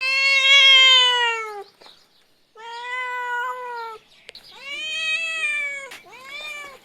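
Kitten meowing four times: three long, drawn-out meows, then a shorter one near the end.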